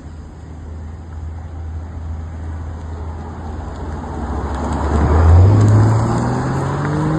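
Car engine pulling under load, its low note climbing and getting louder; a little past five seconds the note steps up and then keeps rising steadily.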